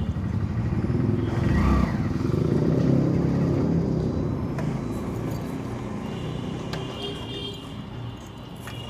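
Motorcycle engine running on the move, growing gradually quieter over the last few seconds as it eases off.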